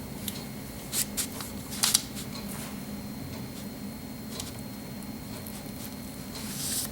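Kitchen knife slicing through a cheesecake, with a few sharp taps of the blade on the cutting board about a second and two seconds in, and a short scraping hiss near the end, over a steady low hum.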